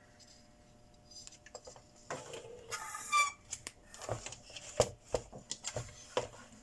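Scattered clicks and knocks of tools and small parts being handled on a workbench during repair of an inverter welder, with a short high squeak about three seconds in.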